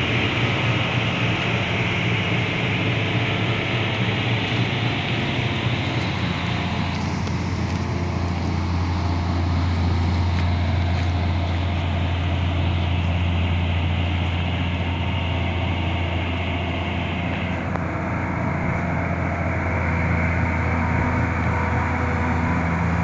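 Liebherr R 944B demolition excavator running steadily, with a deep engine hum under a hiss that falls away about seven seconds in and again near eighteen seconds.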